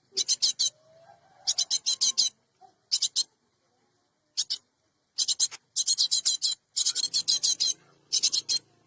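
Cinereous tit (gelatik batu) calling in quick bursts of high, sharp notes, several notes to a burst, with short pauses between bursts and a longer pause of about two seconds near the middle.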